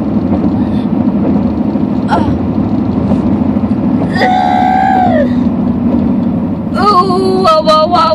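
A car's steady road and engine rumble heard from inside the cabin while driving. About four seconds in, a young woman lets out a drawn-out moan of pain that falls away, and near the end she moans and cries again in broken, wavering sounds: a sickle cell pain crisis.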